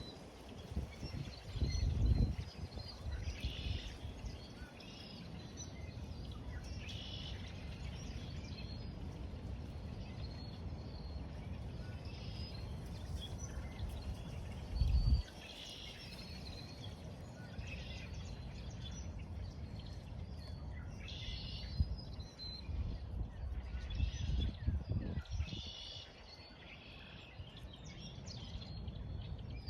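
Several wild birds calling and singing, short high chirps and phrases coming again and again throughout, over a steady low background rumble with a few brief louder bursts of low rumble.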